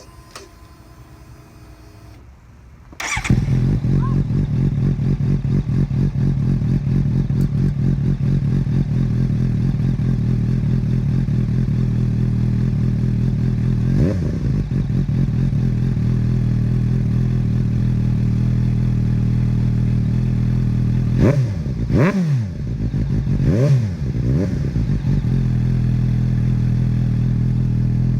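2018 Suzuki GSX-S750's inline-four engine starting about three seconds in, then idling steadily. It is blipped once partway through and revved three times in quick succession near the end, the pitch rising and falling with each rev.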